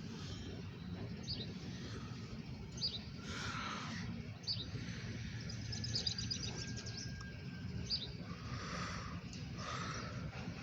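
Songbirds chirping: short high chirps every second or so and a rapid trill about six seconds in, over a steady low rumble.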